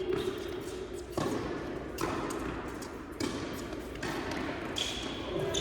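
Tennis balls struck by rackets and bouncing on an indoor court during a rally: a string of sharp pops roughly one a second, echoing in the hall.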